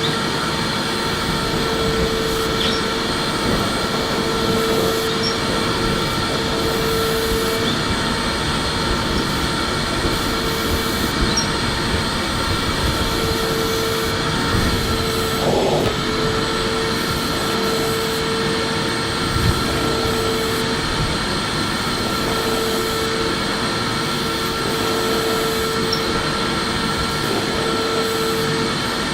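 Electric vacuum cleaner running steadily, a constant whooshing motor noise with a whine that fades in and out every few seconds.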